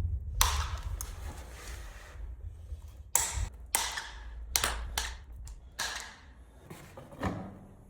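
A series of about nine irregular knocks and taps on wood, typical of new parquet strips being knocked and nailed into place.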